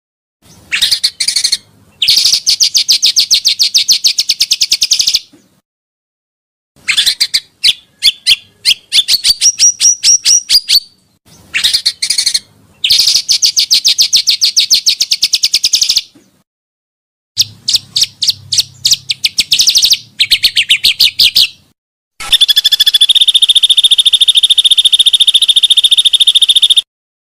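Recorded pancawarna bird song, played loud: bursts of rapid, evenly repeated chirps a few seconds long, some climbing in pitch, separated by short silences. Near the end comes a long steady trill.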